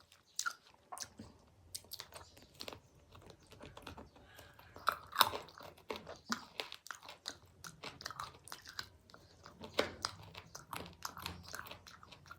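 Close-miked chewing and biting of food, a steady run of small crisp crunches and wet clicks, with the loudest crunch about five seconds in.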